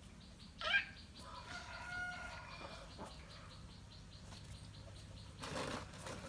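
Faint bird calls: a short gliding call about a second in, then longer held notes, with a brief noisy flutter near the end.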